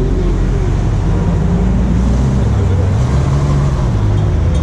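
Deep rumble of supercar engines running at low speed, the pitch rising and falling slightly as the cars roll by.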